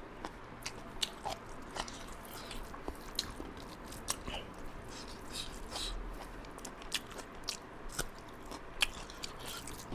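Close-miked eating sounds: a person chewing chicken karchi-marchi with rice, with irregular crunchy bites, wet smacks and small mouth clicks at uneven intervals.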